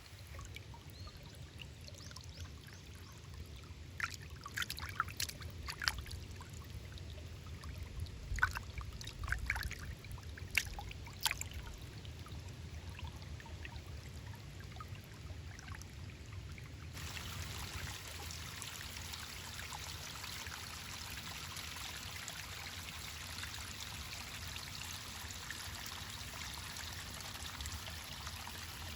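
A small mountain stream trickling and flowing. In the first half there is a low rumble under it and a few short sharp sounds; then it changes abruptly to a steadier, brighter rush of running water.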